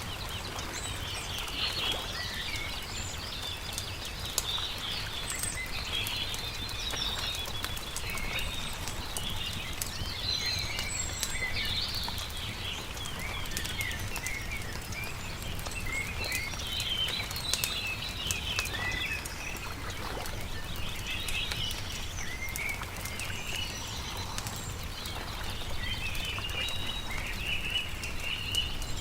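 Small birds chirping and singing continuously over the crackle of a wood campfire, with scattered sharp pops and a low steady rumble underneath.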